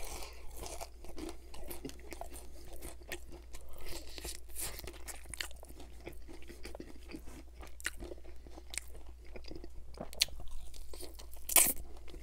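Close-miked crunching and chewing of KFC Extra Crispy fried chicken: a steady run of crisp crunches of the breading as it is chewed, with one loudest crunch near the end.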